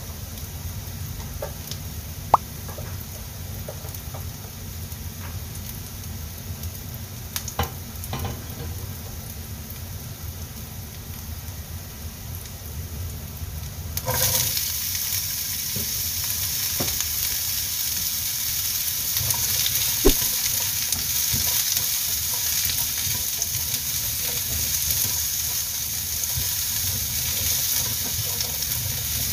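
Minced garlic and ginger sizzling in hot oil in a nonstick pan, with a few sharp knocks. About halfway through, sliced celery drops into the pan and the sizzle jumps much louder and brighter, then carries on as the celery is stir-fried with occasional utensil knocks.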